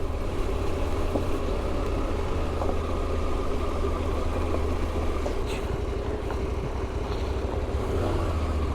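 KTM adventure motorcycle engine running steadily at low revs, heard through an in-helmet microphone, with no revving or change in pitch.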